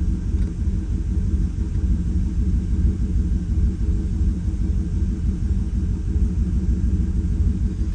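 2018 Chevrolet Silverado engine idling steadily with an uneven, wavering rumble; it is still misfiring on one cylinder, a fault that persists after the injectors were swapped between cylinders.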